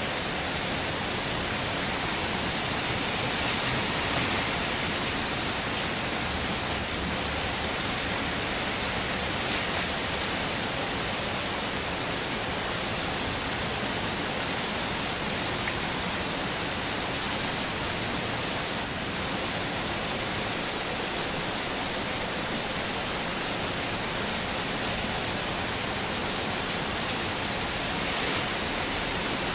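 Heavy rain falling steadily, a dense, even hiss. Twice the sound dips for an instant, about a quarter and about two-thirds of the way through.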